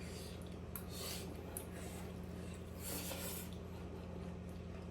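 Mouth sounds of someone eating momos: short chewing and smacking noises, about a second in and again around three seconds in, over a steady low hum.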